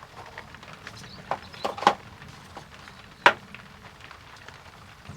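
A few short knocks and clatters of objects being handled and moved, the loudest about three seconds in.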